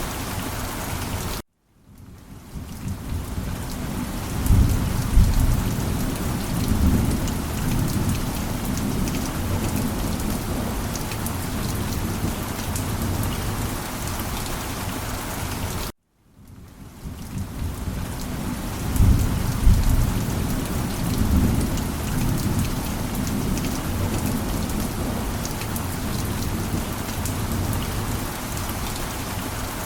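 Steady rain with low rumbles of thunder. Twice the sound cuts out for a moment and fades back in, and a thunder rumble follows a few seconds later each time, as a repeating loop of the same recording.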